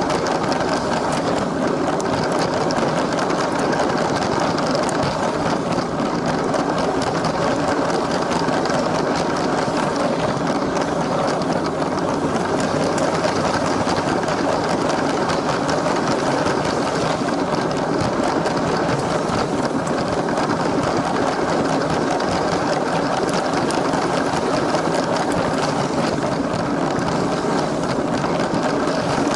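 A LEGO train's small electric motor whirring steadily as the train runs along the track.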